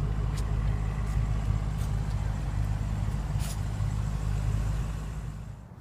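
A vehicle engine idling steadily with a low hum, fading out near the end.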